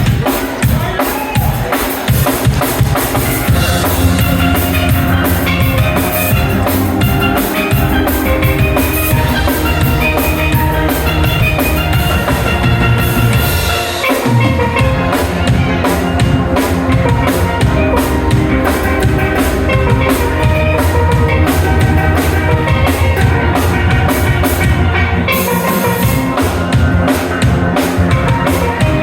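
Steel band playing: steel pans carrying the tune over a drum kit and bass pans, with a steady, driving beat. The bass briefly drops out about halfway through, then the groove picks up again.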